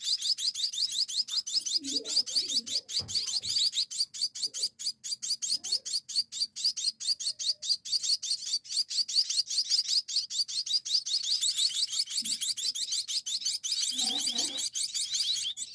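Munia chicks begging as they are fed: a rapid, unbroken run of high, insistent chirps.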